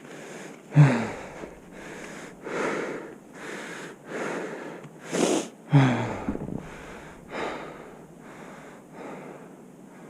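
A person breathing hard and fast, about one breath a second, with two short voiced groans on the exhale about a second in and about six seconds in.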